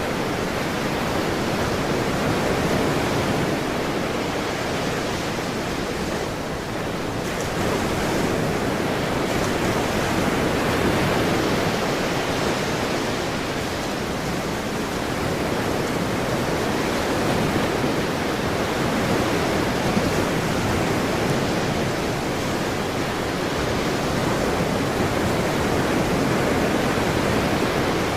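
Ocean waves and surf washing continuously, a dense steady rush that swells and eases slowly every several seconds.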